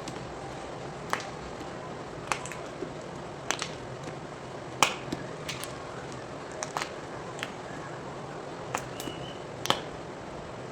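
Blocks of gym chalk being twisted and crunched by hand, giving sharp, crisp cracks at irregular intervals of about a second. The loudest crack comes a little before the middle, over a steady background hiss.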